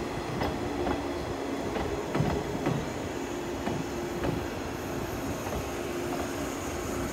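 JR 185 series electric train rolling slowly past, its wheels clicking now and then over the rail joints above a steady hum.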